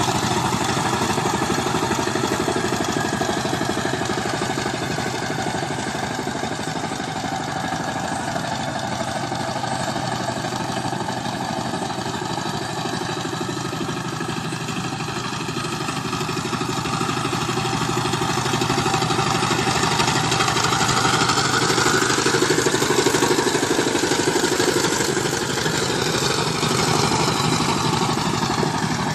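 Engine of a farm machine working a paddy field, running steadily throughout, working a little harder and louder for a few seconds about two-thirds of the way through.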